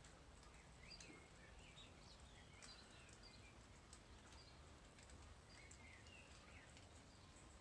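Near silence with faint bird chirps: short, high twittering notes scattered throughout over a low background hum.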